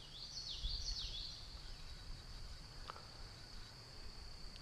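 Insects droning steadily at one high pitch, with a songbird singing a few quick falling notes in the first second.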